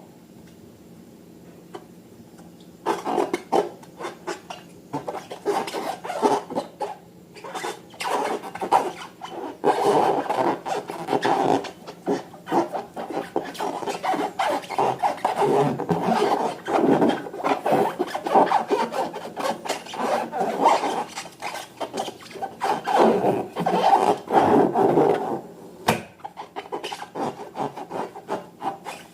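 Slime and balloons being handled: a continuous run of rubbing, crackling squishes that starts about three seconds in.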